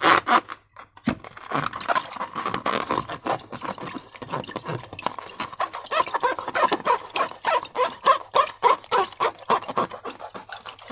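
Slime being squished and stretched by hand: a dense run of irregular wet squelches and sticky clicks, after a brief pause near the start.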